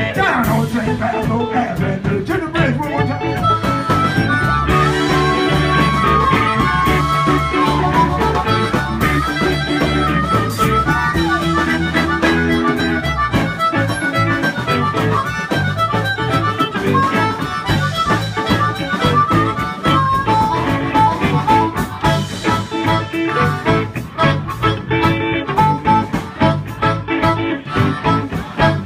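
Blues harmonica solo with bending, sliding notes over a live band's bass and drums, in an instrumental break of an electric blues song.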